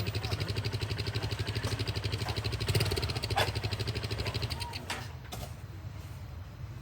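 A small engine running with a fast, even beat that fades away about five seconds in.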